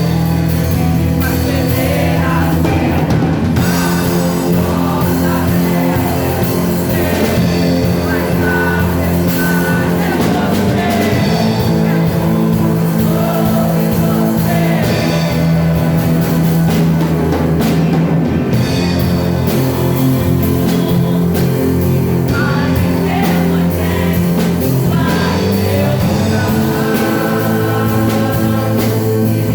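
Worship band playing praise music with a drum kit and singing.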